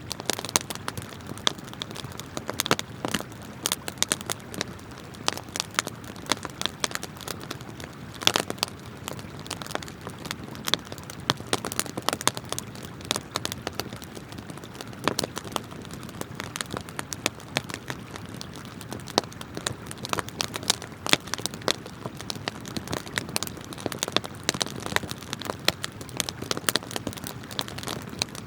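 Wood campfire crackling with many irregular sharp pops and snaps, one louder pop about eight seconds in, over the steady rush of flowing river water.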